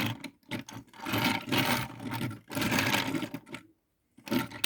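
Handling noise as die-cast toy cars are moved and set down by hand: three rubbing, scraping bursts of about a second each, then a short pause and a brief one near the end.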